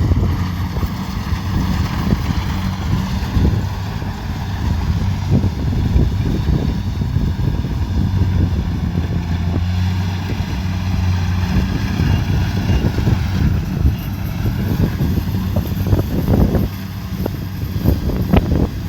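Kubota DC70 Pro combine harvester's diesel engine running at a steady low drone, with many short irregular crackles and knocks over it.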